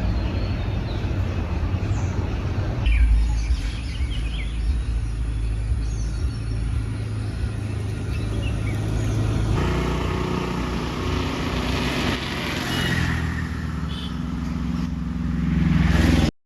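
Outdoor ambience: a steady low rumble with small birds chirping over it. The sound changes abruptly a few seconds in and again about halfway through, then cuts off suddenly near the end.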